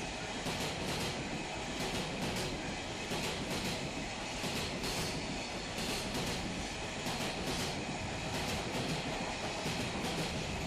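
Container freight train passing, a steady rumble of wagons with irregular clacks of the wheels over rail joints.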